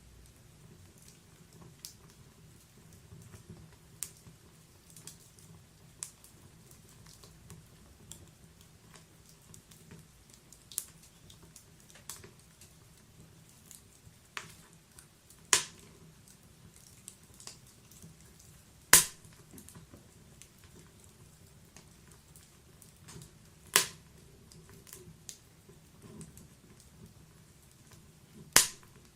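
Wood fire burning in a fireplace, crackling with small irregular clicks and a few louder sharp pops from the burning logs, over a faint low hiss.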